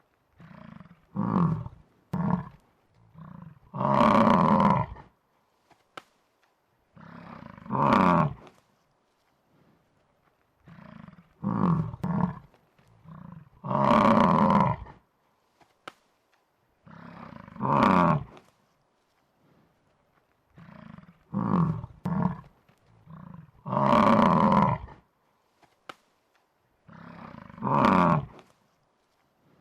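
Looped buffalo call sound effect: a few short grunts and then one long, loud bellow, the same sequence repeating about every ten seconds.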